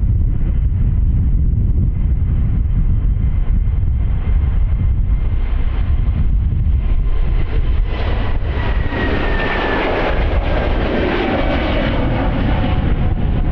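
Airbus A320neo's twin jet engines at takeoff thrust, a heavy steady rumble. About eight seconds in the engine whine grows louder, and its tones slide down in pitch as the aircraft passes.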